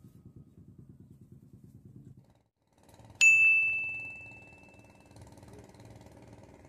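A single clear bell-like ding, struck once about three seconds in and ringing out as it fades over about two seconds, over a low steady rumble.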